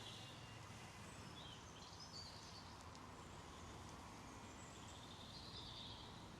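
Near silence: faint outdoor background hiss with a few faint, brief bird chirps.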